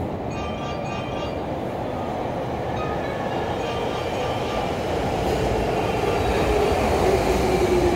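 Hankyu 5300-series electric train pulling into an underground station, its rumble growing steadily louder, with a single whine sliding down in pitch over the last few seconds as it slows. A faint platform chime trails off near the start.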